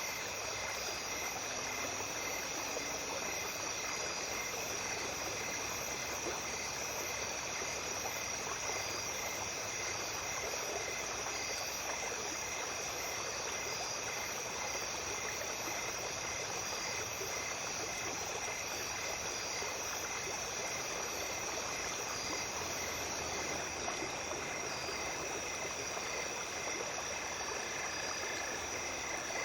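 Small brook flowing steadily, an even rush of water, with night insects trilling over it: steady high-pitched trills and a regular pulsing chirp.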